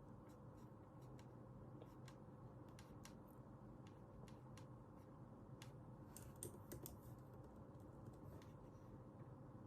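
Faint computer keyboard typing: scattered single keystrokes, with a quicker run of keys about six to seven seconds in.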